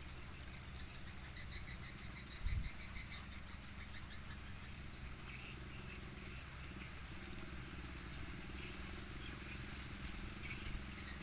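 Faint high-pitched chirping, a rapid run of chirps in the first few seconds and scattered single ones after, over a steady low rumble of strong wind.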